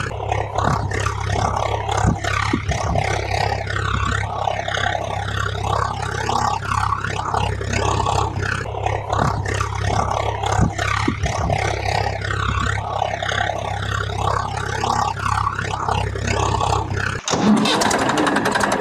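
A motor revving up and down over and over, over a steady low hum; about seventeen seconds in it cuts off suddenly and a different, rougher engine sound takes over.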